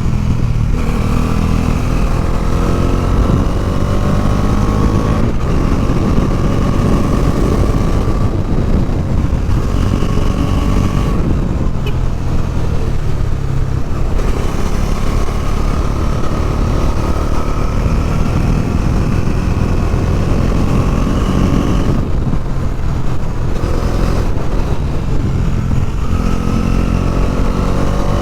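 Bajaj Dominar 400's single-cylinder engine under way, its note climbing in several long pulls and easing off in between as the rider accelerates out of and rolls into corners, over a constant rush of wind and road noise.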